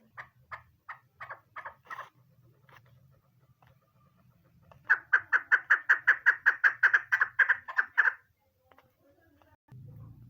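Female chukar partridge calling: a few spaced clucking notes, then a fast, even run of about twenty chuck notes lasting some three seconds.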